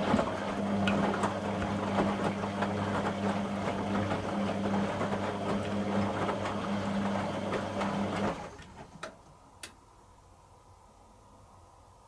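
Beko WTG620M1 washing machine's motor and drum running with a steady hum and rattle, which stops abruptly about eight seconds in, followed by two short clicks.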